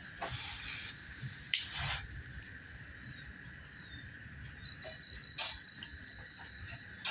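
Cricket chirping in a fast, high, pulsed trill for about two seconds, starting past the middle, over a steady drone of night insects. A couple of short knocks come early on.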